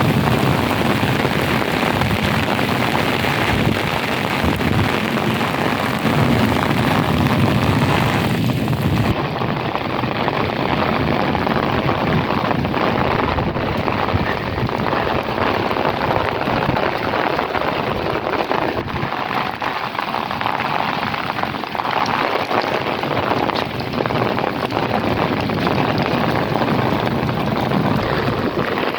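Heavy rain falling, a loud, steady hiss of water striking surfaces; about nine seconds in, the highest part of the hiss drops away.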